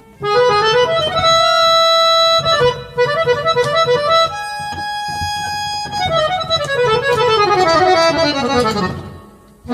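Scale-changer harmonium played with its reeds set to mimic a single reed: held notes and short melodic runs, then a long descending run that fades out near the end.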